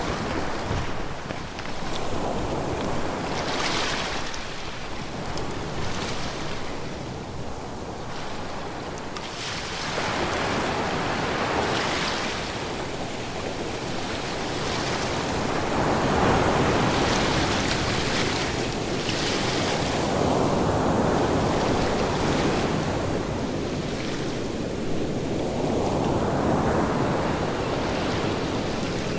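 Ocean waves breaking and washing ashore: a continuous rushing surf that swells and eases every few seconds, with the biggest surges around the middle and late part.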